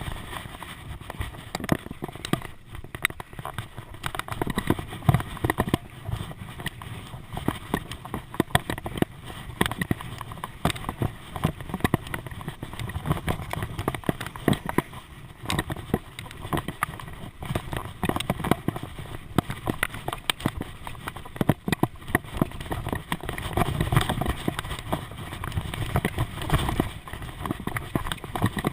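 Bicycle ride heard through a mounted action camera: the bike and mount rattle and knock constantly and irregularly over a low rumble.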